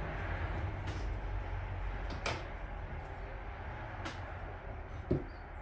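A few light clicks and knocks of tools and small metal parts being handled during outboard motor reassembly, over a steady low hum.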